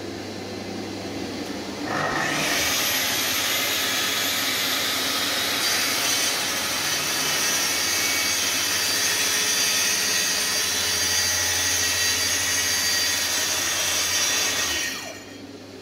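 Festool TS 55 plunge-cut track saw cutting through a board along its guide rail, the blade set deep enough to cut right through. The saw noise comes up sharply about two seconds in, runs steady, and stops near the end as the cut finishes.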